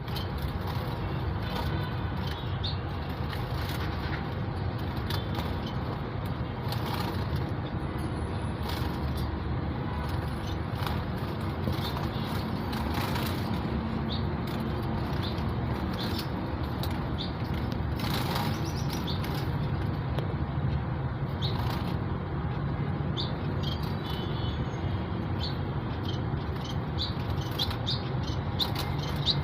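Society finches (Bengalese finches) giving short, high chirps scattered through, with occasional brief wing flutters, over a steady low rumble.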